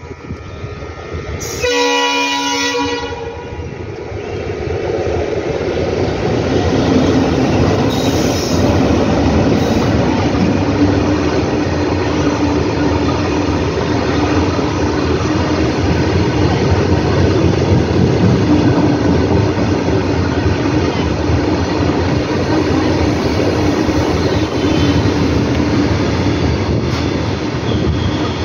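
Diesel locomotive horn (a WDM 3A) sounds once about a second and a half in, for about a second and a half. From about four seconds in, a goods train of open wagons rolls past steadily, its wheels running over the rails.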